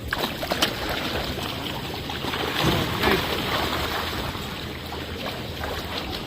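Fish splashing and churning the surface of a pond as they snatch food thrown to them, a steady watery noise with a few sharp splats.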